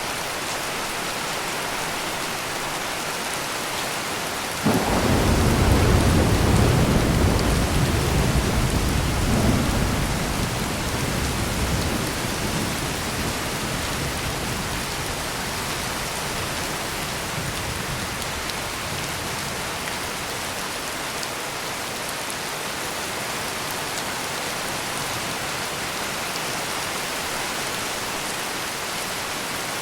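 Steady heavy rain falling, with a clap of thunder breaking in sharply about five seconds in and rolling on as a deep rumble for several seconds before fading back under the rain.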